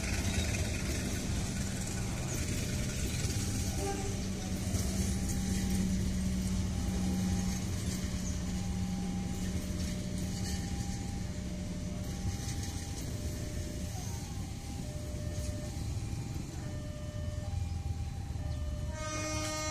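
Passenger coaches of a train hauled by a CC201 diesel locomotive rolling slowly past on the rails with a steady rumble. A short two-tone signal repeats, alternating high and low, behind it. A horn starts sounding at the very end.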